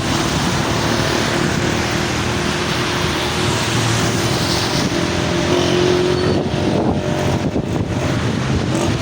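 Steady rushing noise of a motor vehicle on a rain-wet road, with wind on the microphone.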